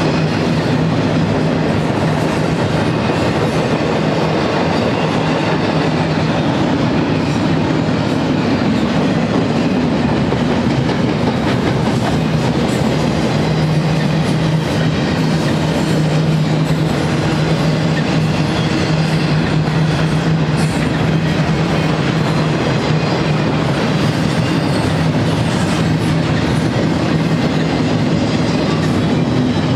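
Double-stack container well cars of a freight train rolling past: a steady, loud rumble of steel wheels on rail with a low hum underneath.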